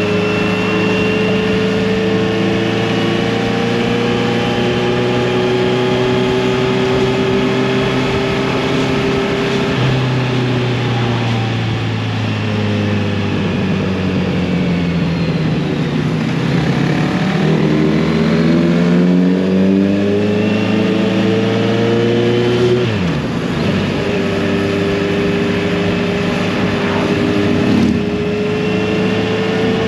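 Kawasaki Z900RS inline-four motorcycle engine and exhaust under way at a steady cruise. About a third of the way in, the revs drop and then climb again, with a brief dip and recovery a few seconds later, like a gear change.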